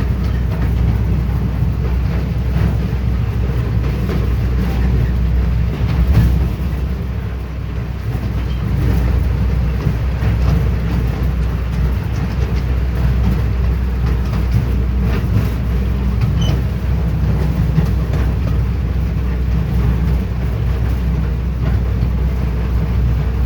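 Train running along the track, heard from on board: a steady low rumble, briefly louder about six seconds in.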